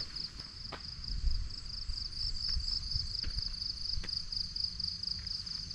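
Insects chirring in the undergrowth: a steady, high, evenly pulsing trill, with a few faint clicks over a low rumble.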